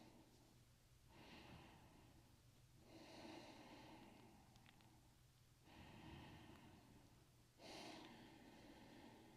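Faint, slow breathing: four breaths, each swelling for a second or two and then fading.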